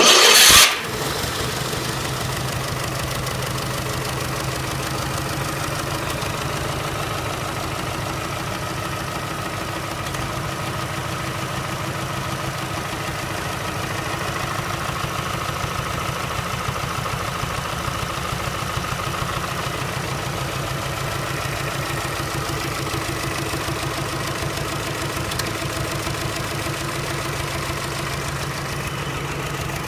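GAZ-67's four-cylinder side-valve engine idling steadily, after a short loud burst at the very start.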